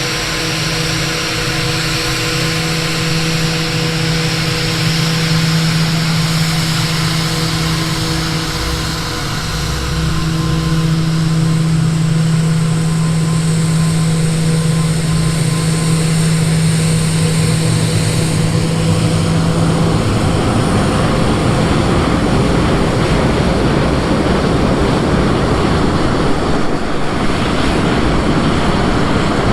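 Aircraft engine noise on an airport apron: a steady whine with several held tones over a background rush. About twenty seconds in, the tones drop out and a louder, even rushing noise takes over.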